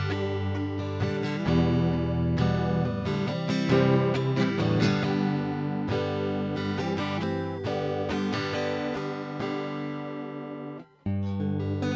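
Electric guitar played through a JHS 3 Series Flanger pedal, strumming chords and picking notes. The playing breaks off for a moment about a second before the end, then starts again.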